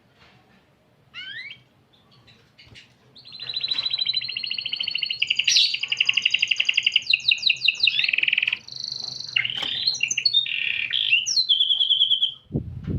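Domestic canary singing: a short rising chirp about a second in, then from about three seconds a long, loud song of rapid trills that switches to a new phrase every second or two and stops shortly before the end.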